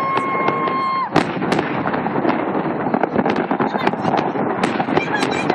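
Fireworks crackling densely with many sharp pops, and one louder bang about a second in. A steady high whistle sounds for the first second.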